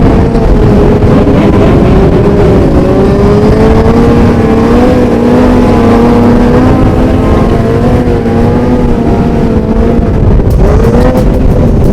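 Several motorcycle engines running together at a steady, loud level, their pitches wavering slightly, with a quick rev near the end.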